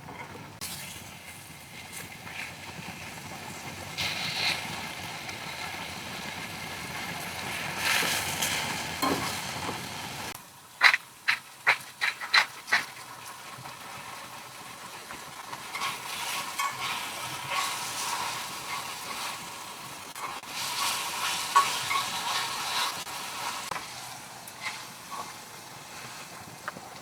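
Food sizzling in a hot pan, with scattered small clicks of utensils. About ten seconds in comes a quick run of six sharp clicks or taps.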